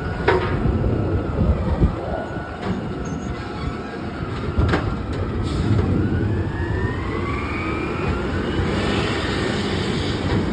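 Autocar garbage truck at work: its diesel engine runs steadily under a few sharp metal knocks, and a whine rises in pitch through the middle.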